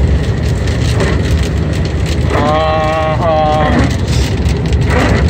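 Steady low rumble of a car's road and engine noise heard inside the moving cabin. About halfway through, a person's voice is heard briefly.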